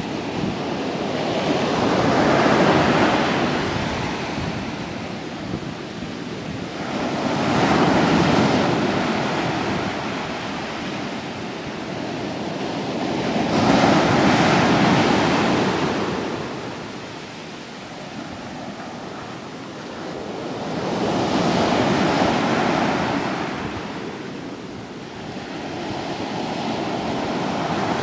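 Sea waves breaking on the shore and washing up the beach, the rush of surf swelling and fading in slow surges about every six seconds.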